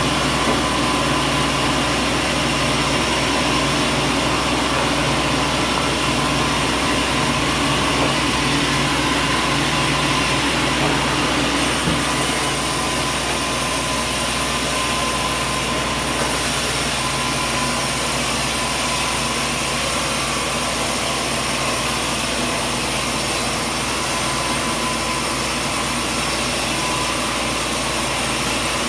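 Sawmill machinery running steadily, a continuous mechanical drone with several steady tones; about twelve seconds in the sound shifts, a low hum stopping and the high end getting brighter.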